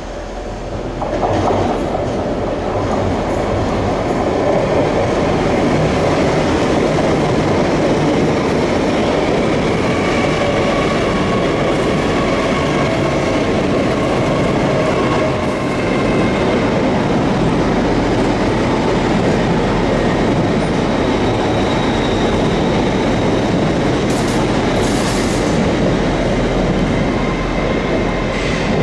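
LNER Azuma (Hitachi Class 800-series) train running past over the pointwork: a loud, steady rumble and clatter of wheels on rail that swells about a second in, with faint high steady tones over it.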